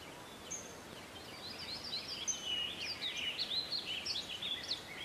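Small birds chirping and twittering, many quick, overlapping chirps that grow busier from about a second and a half in, over a faint steady outdoor hiss.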